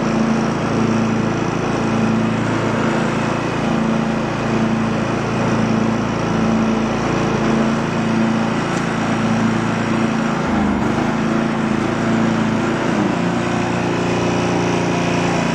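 Craftsman lawn tractor engine running steadily, its note shifting slightly about ten and a half seconds in.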